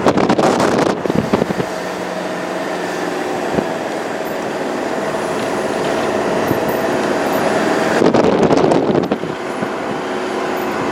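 A vehicle engine running steadily while moving along a road, with wind buffeting the microphone near the start and again about eight seconds in.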